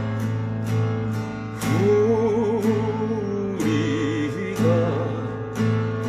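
Acoustic guitar strumming a song introduction in a steady rhythm, with a held, wavering melody line over it from about two to five seconds in.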